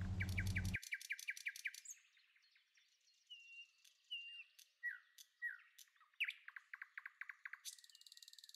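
Birds chirping and singing: a fast run of chirps, then several clear whistled and falling notes, and a rapid trill near the end. A low hum cuts off suddenly under a second in.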